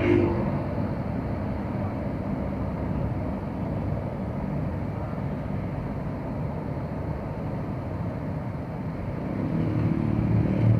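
Motorcycle engine running steadily, a low hum with road or traffic noise, growing a little louder near the end.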